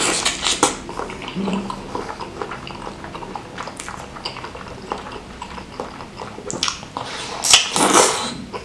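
Close-miked chewing and wet mouth smacking of a person eating a bite of a large spicy bakso (Indonesian meatball) filled with chili sauce, starting with the bite. A louder wet sucking sound comes near the end.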